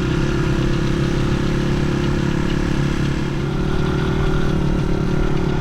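Honda CRF dirt bike engine running at a steady road speed, its note holding even with little revving.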